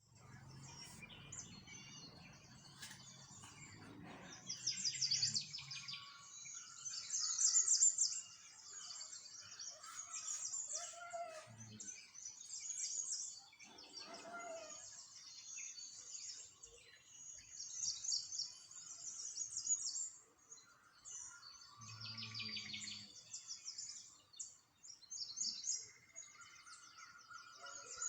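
Small songbirds chirping and singing, many short, fast, high trills overlapping one after another, with now and then a lower whistled note.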